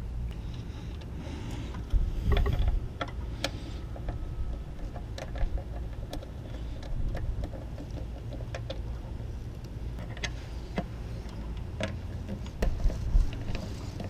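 Irregular clicks and knocks of hand tools and metal parts being handled during engine work, over a low steady rumble. The clicks come in a quick cluster about two seconds in and again near the end.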